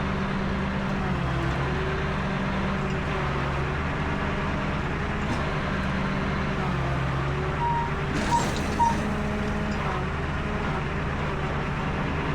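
Tow truck engine running steadily, its pitch stepping up and down at times. About eight seconds in there is a short hiss of air with three short high beeps.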